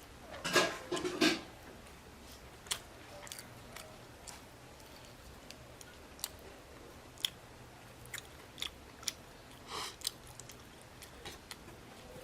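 A person eating and chewing food, with scattered short clicks and smacks. A louder cluster of eating sounds comes about half a second to a second and a half in.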